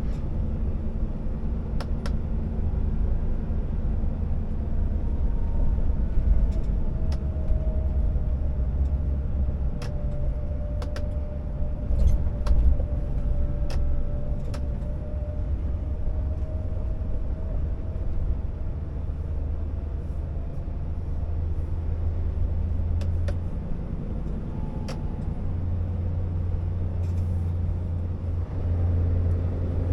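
Scania R650 timber truck's V8 diesel engine running steadily under way, a low drone, with scattered sharp clicks and rattles over it.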